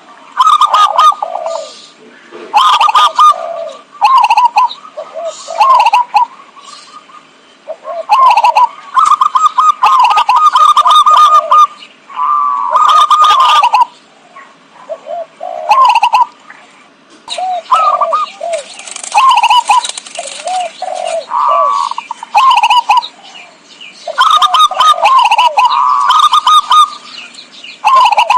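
Zebra dove (perkutut) cooing: short trilling coo phrases, one after another every second or two. This is the kind of call used as a lure for catching perkutut.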